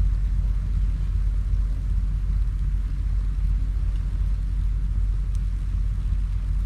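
Wood campfire burning, a few faint crackles over a steady low rumble.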